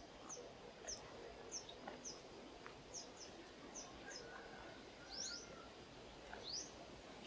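Small birds chirping faintly: short, high, rising chirps about twice a second. A distant rooster crows once, faint and drawn out, around the middle.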